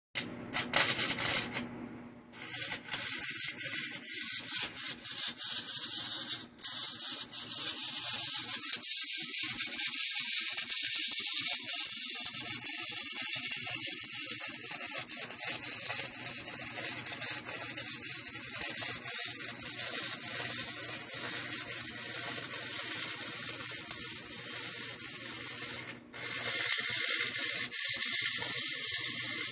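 Stick-welding arc with a 6011 electrode crackling and hissing, laying tack welds on steel in long runs with short breaks about 2 seconds in and again near the end.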